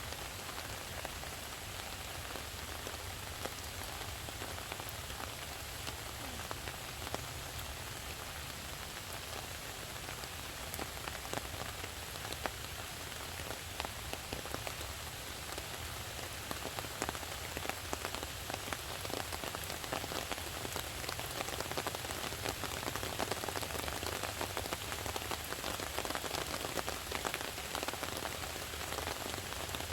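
Steady rain falling, with many separate drops ticking on a surface; the patter grows denser and a little louder about halfway through.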